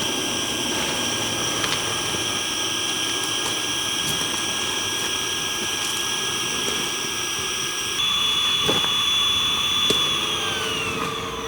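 Electric air pump running steadily with a high whine, then winding down near the end as its pitch falls.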